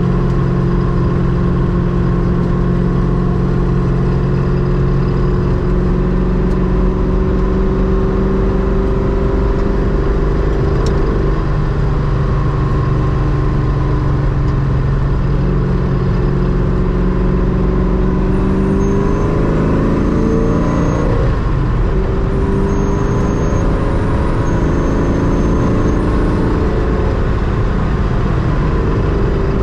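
Ultima RS kit car's GM LS-family V8 engine running steadily while driving. About two-thirds of the way through, the engine note rises, then drops back and settles.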